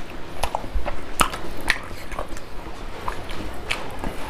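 Close-miked chewing of rice and pork by hand-fed mouthfuls: irregular wet smacks and clicks of the mouth.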